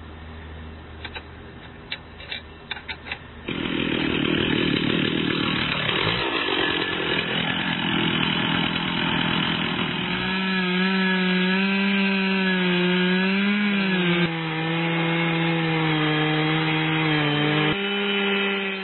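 Two-stroke chainsaw fitted in an Alaskan-type chainsaw mill, running hard as it rips lengthwise through a log. It comes in loud about three and a half seconds in, after a few faint clicks, and its engine note wavers up and down with the load of the cut.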